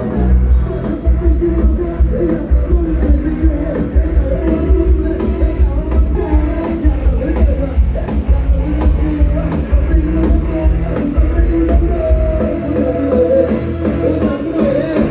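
Live band music from a Thai rot hae (truck-mounted band and sound system): loud, steady music with heavy bass, a regular drum beat and singing.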